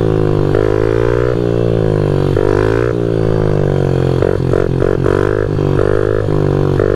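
Pit bike's small single-cylinder four-stroke engine revving up and down under the throttle during stunt riding, with a quick run of short blips about four to five seconds in.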